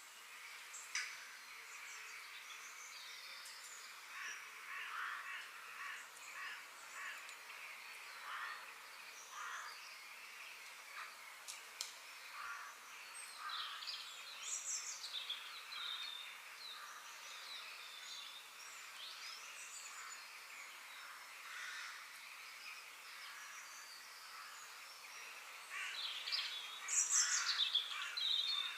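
Outdoor birds chirping and calling in short, scattered calls over a steady background hiss, with a louder flurry of calls near the end.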